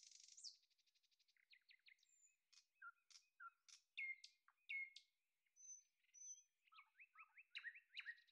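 Faint bird chirping: a string of short chirps and quick downward-sliding notes, coming thicker toward the end.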